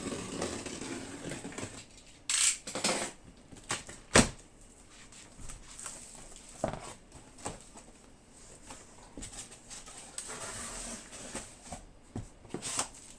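Cardboard shipping box being opened by hand: rustling and scraping of cardboard and packing, with scattered clicks and knocks, the sharpest about four seconds in.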